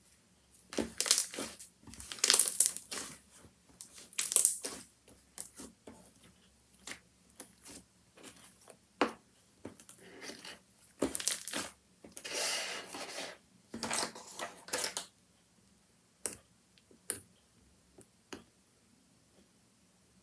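Handmade slime being squeezed and pressed by hand: a run of irregular short and longer sticky bursts, which thin out about fifteen seconds in to a few single clicks.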